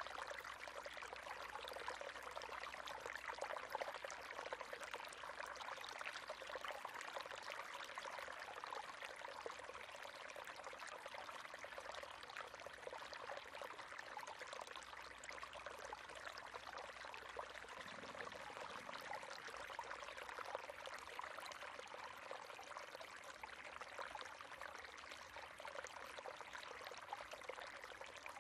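River water flowing steadily over rocks: a continuous babbling rush.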